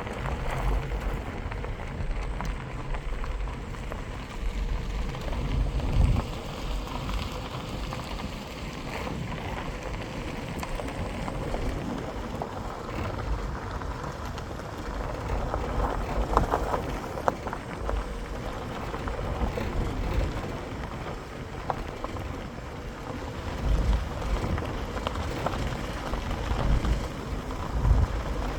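Wind buffeting the microphone in gusts over a steady background rumble, with a faint steady hum underneath.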